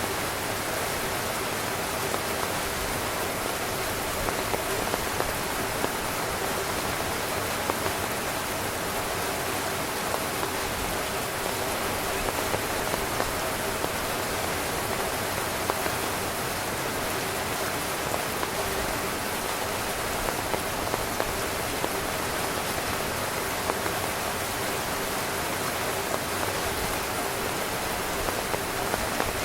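Steady heavy rain drumming on a tent's fabric, a continuous wash of noise with scattered louder individual drop hits.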